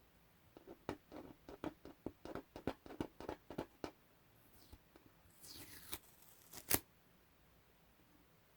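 Adhesive tape being peeled off a surface. A run of quick crackling pulls lasts about three seconds, then comes a short high tearing swish and a single sharp click, the loudest sound, about two-thirds of the way through.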